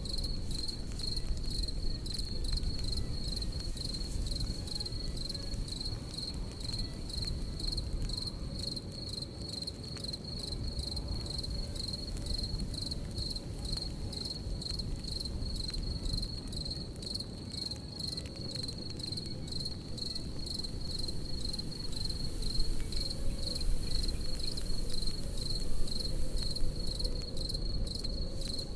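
Crickets chirping in a steady, evenly pulsing high trill, over the low, even noise of a campfire with occasional small crackles.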